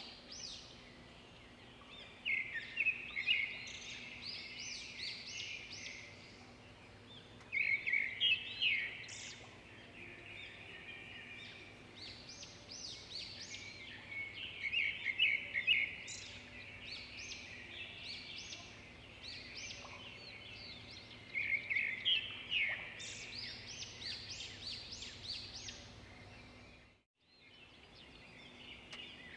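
Swiftlets' high, quick chirping twitter calls, coming in clusters every few seconds over a faint steady hum. The sound cuts out for a moment near the end.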